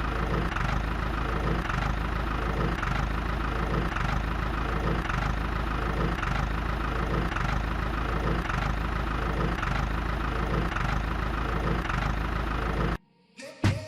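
Small electric motor of a homemade model chaff cutter running steadily, with a faint regular pulse about once a second; it cuts off suddenly near the end.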